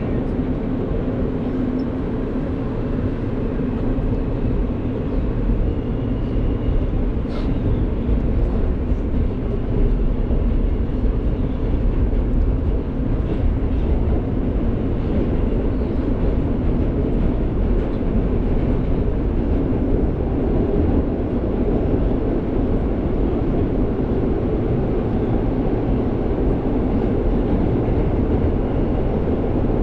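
New York subway F train running between stations, heard from inside the car: a steady low rumble of wheels on the rails with a constant hum.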